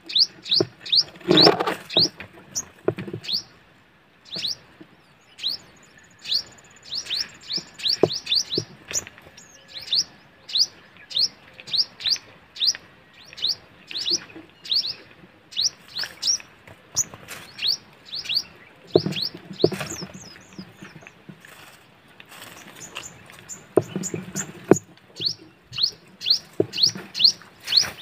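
A small bird chirping over and over: short, high notes that each drop quickly in pitch, about two a second, in runs with short pauses. A few brief low rustling thuds come through now and then.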